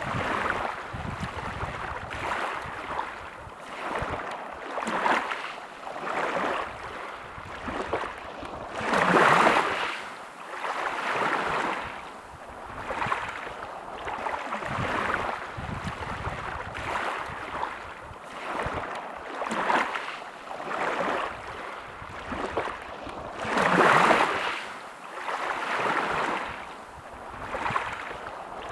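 Sea waves washing onto a beach, the surf swelling and fading every few seconds, with two bigger waves breaking about nine seconds in and again about three quarters of the way through.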